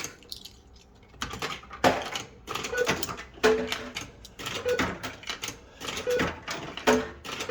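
Old pound coins being fed one after another into a Bell-Fruit System85 fruit machine: a run of sharp clicks and clatters as the coins drop through the coin mech, several of them followed by a short tone from the machine.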